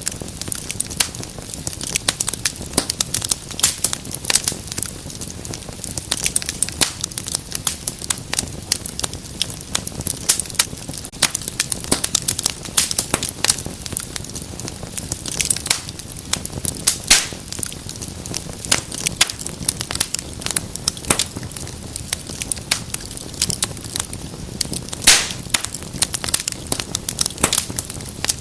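Wood fire burning in a fireplace, crackling continuously with many small sharp pops and a few louder snaps, over a low steady rumble of the flames.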